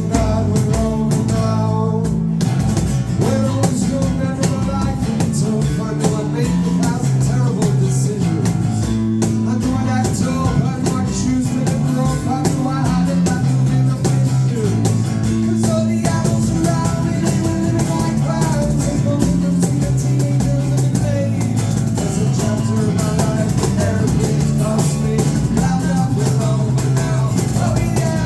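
A live rock band playing a song: guitars and a drum kit.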